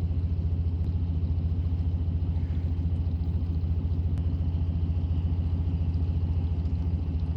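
An engine running steadily: a low, even hum with a fast regular pulse and no change in speed.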